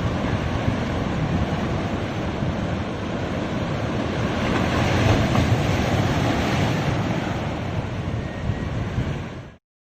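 Ocean waves washing onto a beach, with wind buffeting the microphone; a steady rush that swells about halfway through, then cuts off abruptly near the end.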